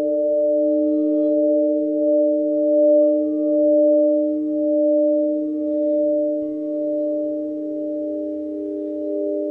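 Singing bowls ringing in a sustained chord of several steady tones, with a slow pulsing swell as the tones beat against each other.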